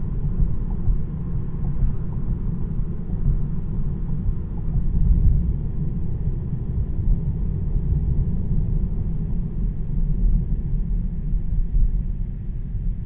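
Steady low road and tyre rumble inside the cabin of a 2026 Tesla Model 3 Premium RWD under way. Being electric, it has no engine note.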